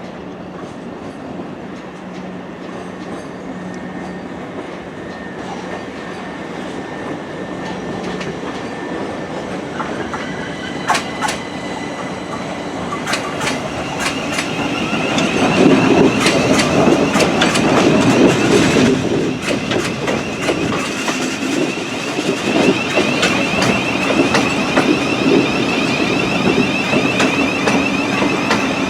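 Train growing louder as it comes in and runs close by, with its wheels clicking over rail joints and, from about halfway, a high steady whine or squeal.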